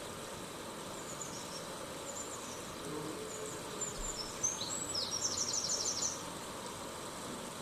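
Steady hiss of falling rain, with a bird calling over it. The bird gives a few faint high chirps early on, then a quick run of about seven high chirps between four and six seconds in.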